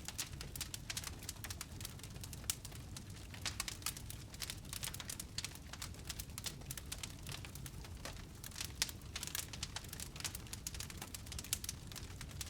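Wood fire crackling in a fireplace: a dense, irregular run of sharp pops and snaps over a low steady rumble.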